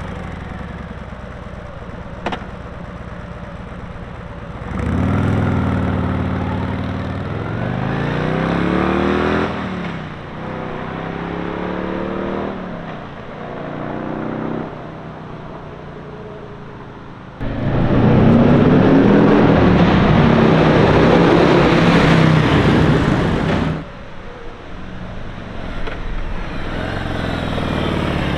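Harley-Davidson Road Glide's Milwaukee-Eight V-twin idling just after start-up, then revved in a string of rising blips. After a short idle comes one long, loud rev of about six seconds that cuts off sharply, and it revs up again near the end.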